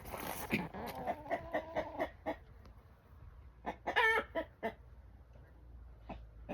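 Domestic hens clucking: a quick run of short clucks, a louder drawn-out call about four seconds in, then the flock goes nearly quiet.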